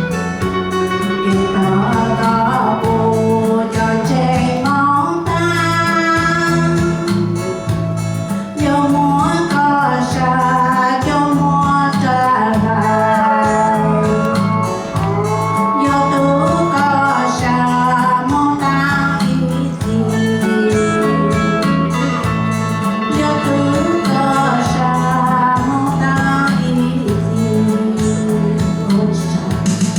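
A song: a voice singing a melody over guitar-led backing music with a steady bass line.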